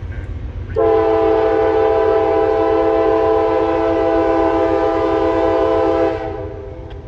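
Diesel freight locomotive's air horn sounding one long steady blast of about five seconds, several tones sounding together as a chord, over the low rumble of the moving train.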